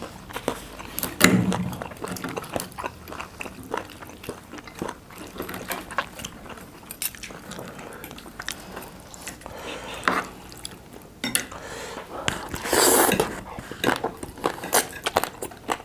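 Eating at the table: cutlery clinking against dishes and chewing, with many short sharp clicks and one louder noisy burst about 13 seconds in.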